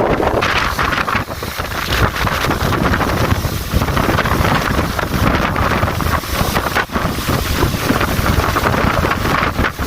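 Heavy windstorm wind blowing hard against the microphone: loud, gusty rushing with low rumbling buffets that rise and fall throughout.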